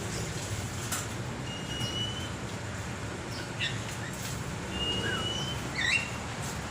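Caged birds giving a few short whistles, two of them level held notes and the rest quick chirps, over a steady low rumble.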